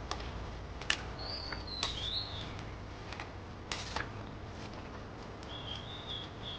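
A bird calling outdoors: short warbling chirps, one phrase about a second in and another near the end, over scattered sharp clicks and knocks and a low steady rumble.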